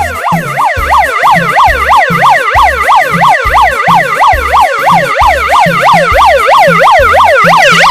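Battery-powered megaphone's built-in siren sounding loud and continuous: a rapid up-and-down wail, about three sweeps a second, over a steady low thudding beat.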